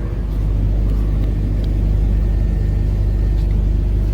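Steady low engine drone, even in pitch and unchanging.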